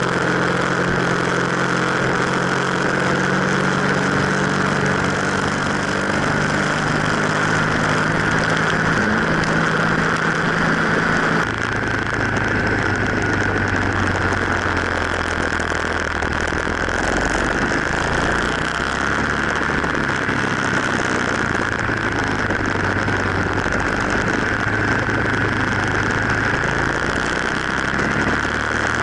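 Aprilia RSV1000 Factory's V-twin engine running at a steady pace under way, mixed with constant wind and road noise. About a third of the way through the sound changes abruptly to a lower, steady engine note.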